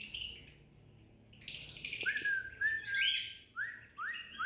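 Small caged pet birds chirping and calling, with a run of short rising whistled notes near the end.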